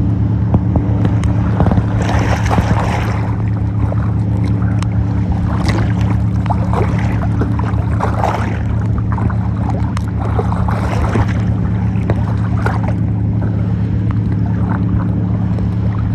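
A motorboat engine running with a steady low hum, and water splashing and sloshing at irregular moments over it, most strongly about two, eight and eleven seconds in.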